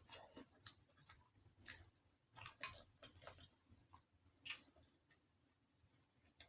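A person chewing food with their mouth close to the microphone, with a few soft, irregular wet mouth clicks and smacks.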